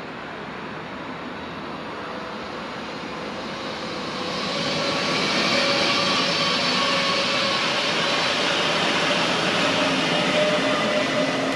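EN79 electric multiple unit passing along the track, the rumble of its wheels on the rails and a steady whine building from about four seconds in and staying loud.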